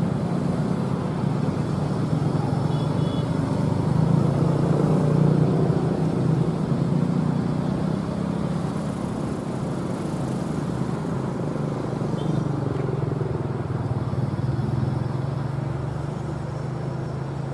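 Heavy diesel engine running steadily, getting a little louder about four seconds in and then easing off again.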